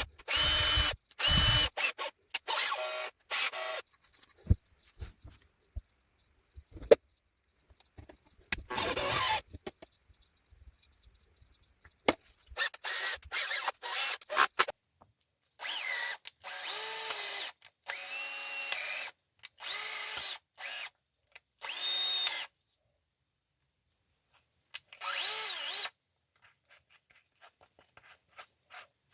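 Makita 18-volt cordless drill run in a series of short trigger bursts, its motor whining as it spins up and winds down, starting and stopping about a dozen times. It is a test run of the drill after its worn brushes were replaced and the mechanism serviced.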